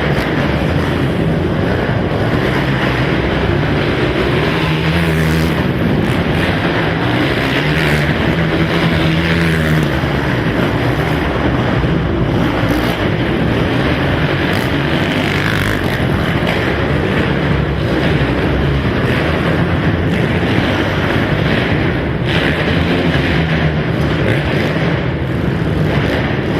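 Racing quad (ATV) engines running hard and continuously, their pitch rising and falling as they rev.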